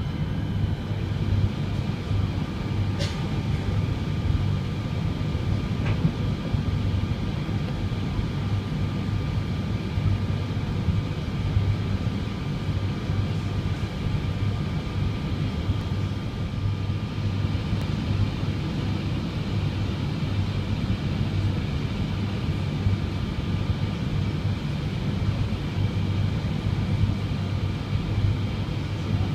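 A regional passenger train running at speed, heard from inside the carriage: a steady low rumble of wheels on rails with a few faint steady high whines above it. Two brief ticks come about three and six seconds in.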